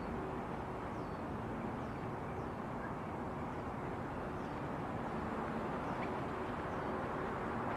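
Faint, short high bird chirps, each sliding downward, repeating roughly once a second over a steady rumbling background noise.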